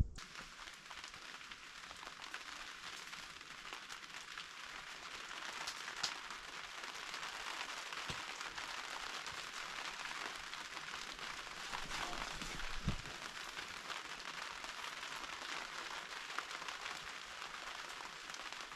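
Steady heavy rain, a dense even patter with a few louder drops or knocks now and then.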